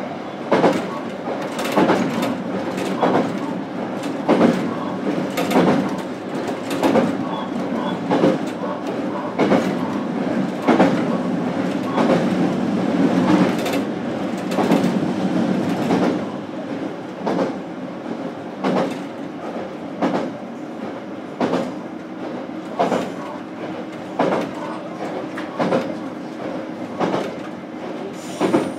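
JR Kyushu BEC819 series DENCHA battery electric train running, heard inside the car: a steady rumble of wheels on rail with a sharp clickety-clack over the rail joints about every second and a bit. A steady electric hum joins in for several seconds past the middle.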